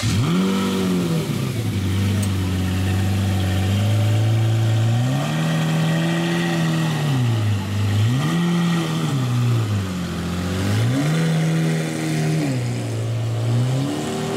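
A supercar's engine idling and being revved about five times. Each rise in pitch lasts one to two seconds before it falls back to idle.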